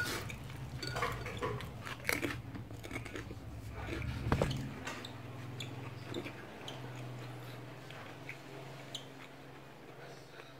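Close mouth sounds of someone eating cilok, chewy tapioca balls in spicy broth: irregular chewing, smacking and small clicks.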